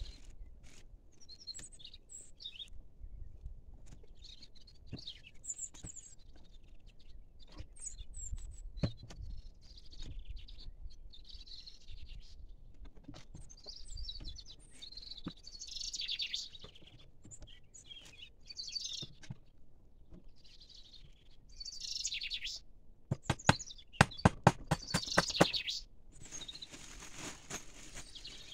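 Small birds chirping and singing on and off, with a few faint scattered knocks. About three-quarters of the way through comes a quick run of about a dozen sharp knocks, the loudest sound.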